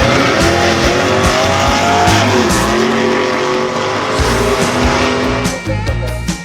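A car's engine revving hard, its pitch rising and gliding, with tyres screeching, heard over background music. The engine and tyre noise falls away about five and a half seconds in, leaving the music.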